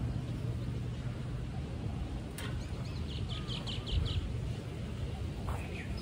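A bird chirps about six times in quick succession a few seconds in, over a steady low rumble of background noise. A single low thump comes about four seconds in.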